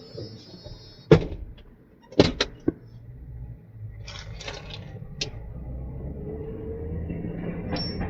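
A tow truck's engine running with a low, steady rumble that grows louder toward the end. Over it come a sharp clunk about a second in, then a quick cluster of three clunks about two seconds in.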